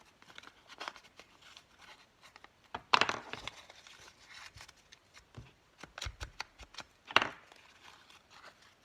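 Craft paper being handled and its edge rubbed with an ink pad: scattered light rustles and scuffs, with two louder rasping scrapes about three and seven seconds in.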